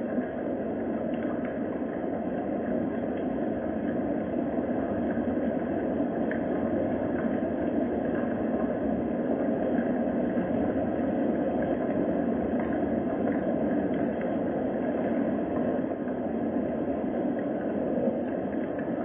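Steady rain, a continuous even rushing noise with a few faint ticks.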